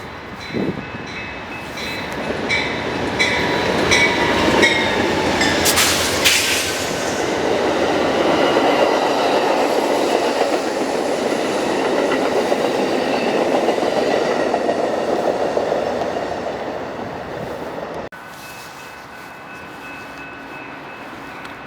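A train passing: its wheels click over rail joints in an even rhythm, then the cars roll by with a steady rumble. The sound cuts off abruptly about eighteen seconds in.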